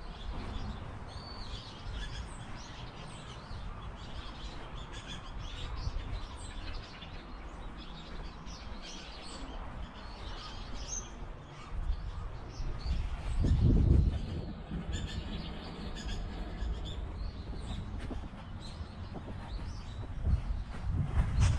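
Small birds chirping and twittering in short calls throughout, over a low rumble that swells briefly about two-thirds of the way through.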